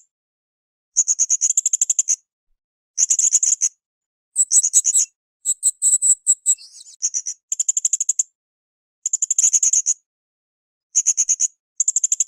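Blue-crowned hanging parrot (srindit) calling: bursts of rapid, shrill high-pitched chirps, each about a second long, repeated every couple of seconds with dead-silent gaps between them. The middle stretch has a different, more broken run of notes.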